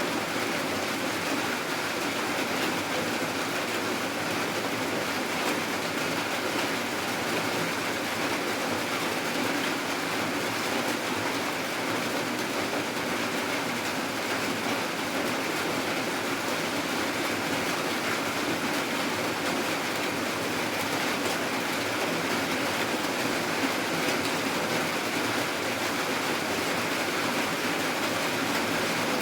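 Steady rain falling, an even, unbroken hiss with no thunder or breaks.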